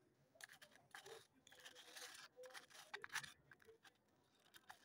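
Close-up chewing of soaked clay pot paste and slate pencil: a faint series of short, sharp crunches and crackles, bunched most densely about three seconds in.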